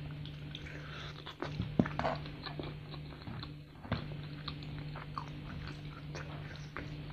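Close-up biting and chewing of sauce-coated crispy fried chicken: a run of crunches and wet mouth sounds, the sharpest a little under two seconds in, over a steady low hum.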